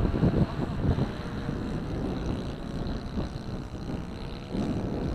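Wind buffeting the microphone, with the steady drone of a Kadet LT40 model plane's nitro glow engine in flight at a distance.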